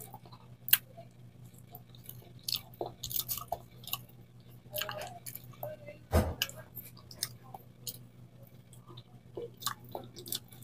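A person chewing a ripe banana: soft, wet mouth clicks and smacks coming irregularly, with one louder thump about six seconds in. A faint steady hum runs underneath.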